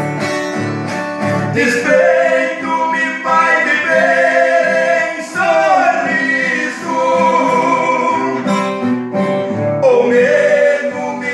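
A song: male singing with long held notes over plucked acoustic guitar.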